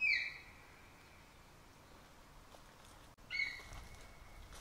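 A songbird whistling two clear, held notes: the first at the start, slightly falling in pitch, and a second about three seconds later that opens with a few quick notes before settling into a long steady tone.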